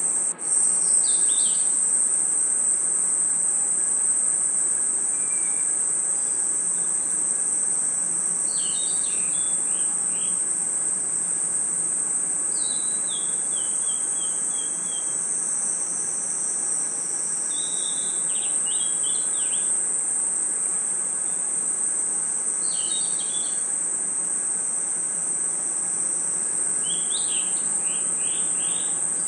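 Steady, high-pitched chorus of night crickets and insects, with short bursts of bird-like chirping phrases every four to five seconds, some running down in pitch. There is a brief dropout just after the start.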